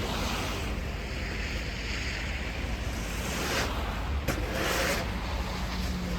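Wind during a snowstorm, rushing steadily and buffeting the microphone, with a few stronger gusts past the middle.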